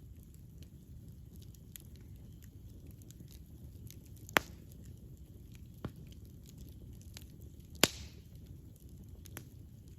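Wood fire burning with a low rumble and scattered light crackles, and two loud sharp pops from the burning wood, about four and a half and eight seconds in.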